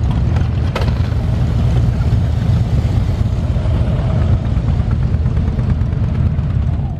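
Motorcycle running steadily on the move, with a low engine rumble and wind noise.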